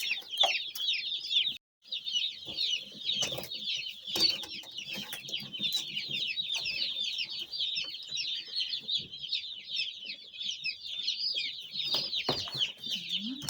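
A brood of newly arrived broiler chicks peeping nonstop, a dense chorus of short high chirps, with a few scattered knocks. The sound cuts out for a moment under two seconds in.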